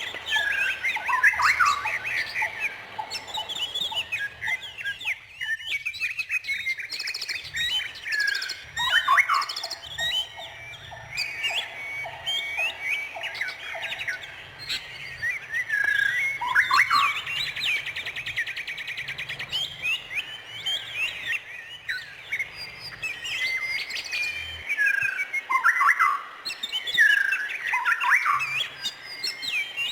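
Songbirds chirping and singing in overlapping, quick rising and falling phrases. Partway through, an evenly pulsed lower trill repeats for several seconds.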